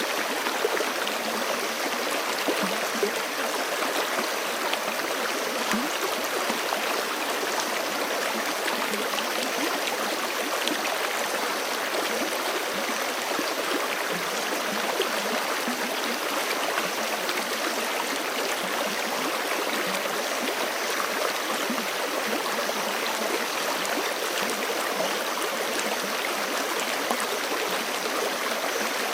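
Forest creek flowing over rocks: a steady rush of running water with bubbling and gurgling.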